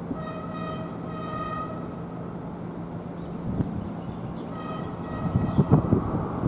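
Train horn sounding two short blasts about a second apart, then a shorter third blast a few seconds later, over a steady low hum. Near the end, loud irregular gusts of rumbling noise come in, like wind on the microphone.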